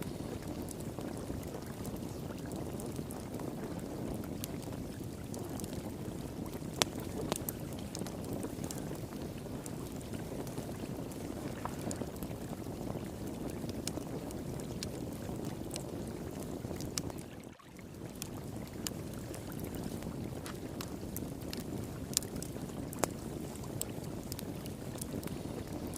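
Wood fire crackling, with scattered sharp pops, over the steady rush of flowing water. The sound dips out briefly about two-thirds of the way through.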